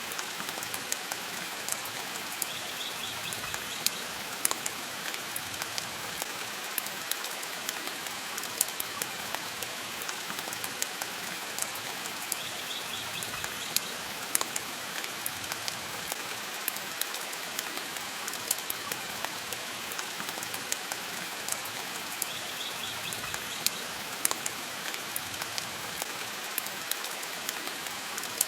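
Steady rain hiss mixed with the irregular sharp pops and crackles of a wood fire burning in a fireplace. A faint, brief high twitter recurs about every ten seconds.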